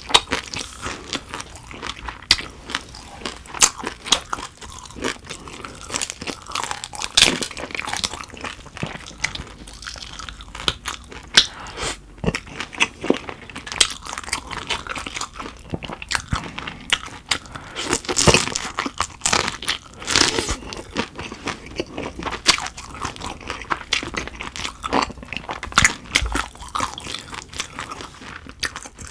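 Close-miked chewing of shrimp: irregular wet, crunchy bites and mouth clicks, one after another.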